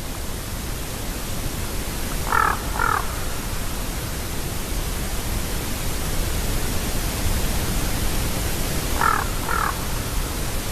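Common raven calling: two short calls in quick succession, then another pair about seven seconds later, over a steady background hiss.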